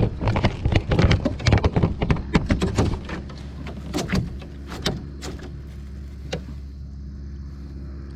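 Rapid clattering and knocking of things being handled and bumped in a canoe for about three seconds, then a few single knocks, over a steady low hum.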